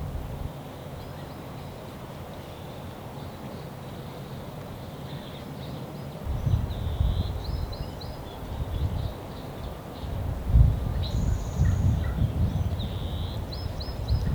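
Small birds chirping in short, high calls throughout. From about six seconds in, irregular low rumbling noise on the microphone comes and goes and is the loudest sound, peaking about ten and a half seconds in.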